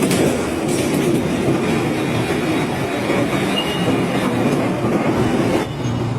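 Industrial shredder grinding and tearing scrap metal, a loud continuous clattering and scraping. Near the end the harsher high scraping drops away suddenly.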